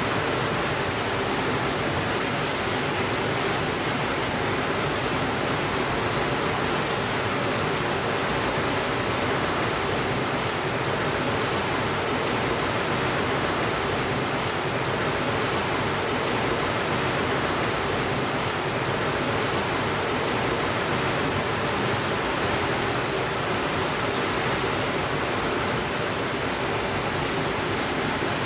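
Steady rainfall, an even hiss with no thunder and no change in level.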